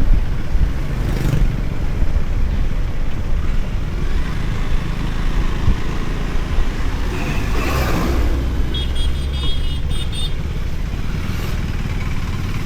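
Motorcycle running on the road with wind noise on the on-board microphone. A vehicle passes with a louder swell about eight seconds in, followed by a short high-pitched tone.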